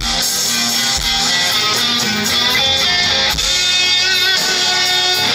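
Live band playing an instrumental passage of a slow rock ballad, with guitar to the fore.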